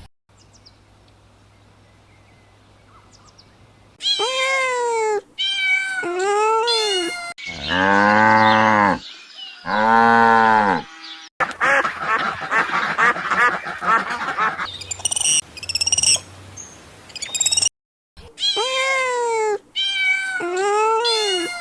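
A run of farm animal calls: after a few seconds of faint hum, several short arched calls rising and falling in pitch, then two long, lower drawn-out calls, a stretch of dense rapid calls, and more short arched calls near the end.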